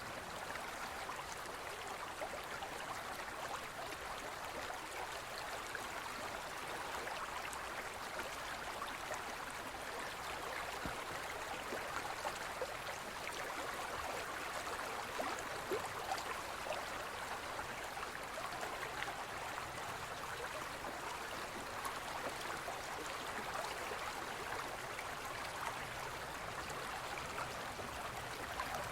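Gentle forest stream flowing: a steady, even rush of water with small splashes scattered through it.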